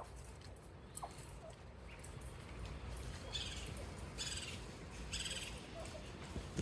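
Bird calls: three short, harsh, high-pitched calls about a second apart, starting about halfway through, over a low steady rumble.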